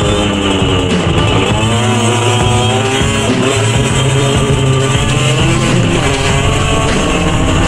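CPI SM 50 supermoto's 50cc two-stroke engine, fitted with an aftermarket SCR exhaust, revving under way, its pitch falling and rising with the throttle. Music plays underneath.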